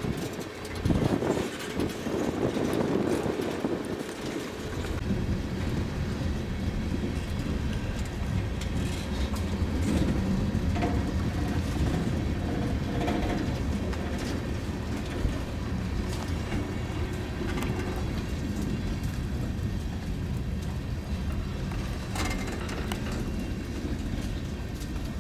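Iowa Northern freight train of mostly empty tank cars rolling slowly past, braking down for the junction's 10 mph limit: a steady low rumble of car wheels on the rails with scattered clicks over the joints.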